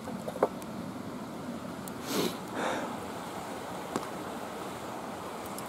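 Steady hiss of outdoor background noise, with a few small clicks and two brief soft rustles about two seconds in.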